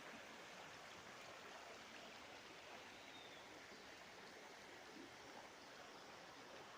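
Faint, steady rush of a river's flowing water.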